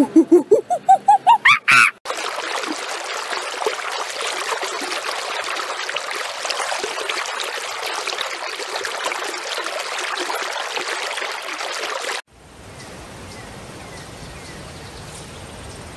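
Surf washing on a sandy beach, a steady rush with fine crackle, cut off abruptly about twelve seconds in. Before it, a short run of animal calls rising in pitch. After it comes a quieter steady outdoor background with a few faint high chirps.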